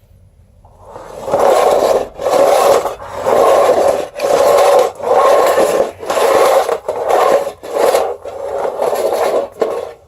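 Bissell Sweep Up manual carpet sweeper pushed back and forth over plastic clippings on a hard floor, its brush roller and wheels making a noisy sweep with each push, about eight strokes roughly one a second, starting about a second in.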